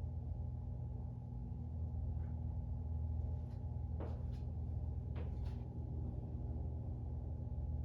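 A 52-inch Fasco Parlour ceiling fan's motor running at a low speed with a steady hum, with a few faint clicks in the middle.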